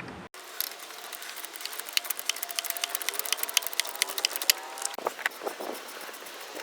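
Socket ratchet clicking rapidly in quick strokes, loosening the cartridge oil filter housing cap, followed by a few light knocks near the end.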